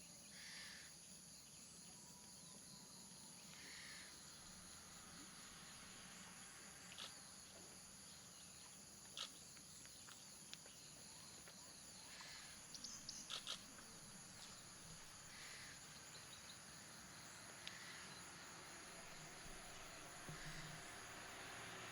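Faint steady high-pitched drone of insects, with a few short sharp clicks around the middle. Near the end the noise of an approaching vehicle starts to build.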